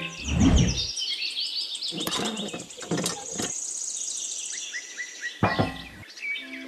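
Songbirds chirping in quick repeated high trills, with a low thump about half a second in and a few sharp knocks later.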